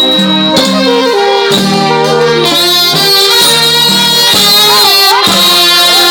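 Thai trae wong brass band playing funeral music: reed and brass instruments hold and bend overlapping melodic notes, loud and steady.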